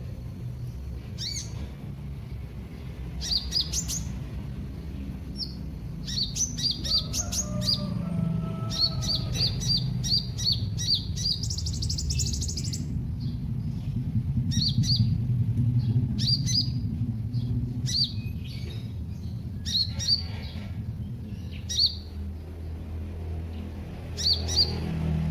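A small bird called a kolibri, the Indonesian bird-keepers' name for sunbirds, giving quick, high chirps in short runs, with a brief buzzy trill about halfway through. A steady low hum runs underneath.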